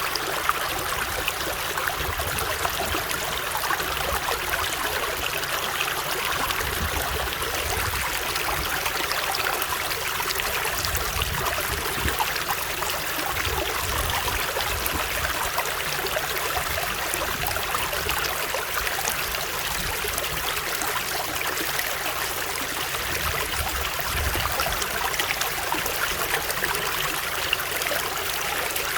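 Running water flowing steadily, a dense, even rush with occasional faint low rumbles underneath.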